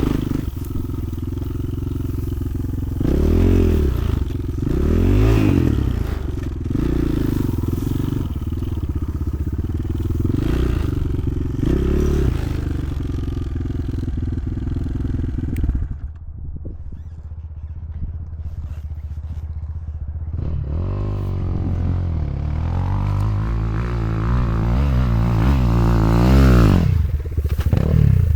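Motoland XR 300 Lite enduro motorcycle engine under riding load, its pitch rising and falling repeatedly with the throttle. About sixteen seconds in it drops to a low, quieter run, then climbs steadily for several seconds before easing off near the end.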